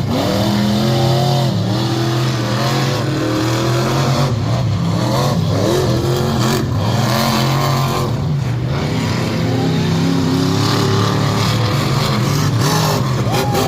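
Monster truck engine revving hard, its pitch rising and falling again and again over a loud, steady drone.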